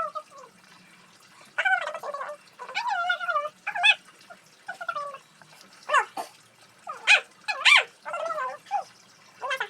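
A dog whining and yelping in short, high-pitched calls, about nine of them with wavering pitch and short pauses between.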